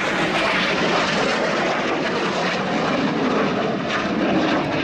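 BAE Hawk T1 jets with Rolls-Royce Turbomeca Adour turbofan engines flying by in a display: a loud, steady jet rush that holds throughout.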